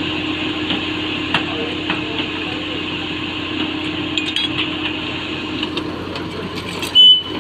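Heavy construction machine engine running steadily, with a few scattered metallic clinks and knocks. A short, loud, high-pitched tone sounds near the end.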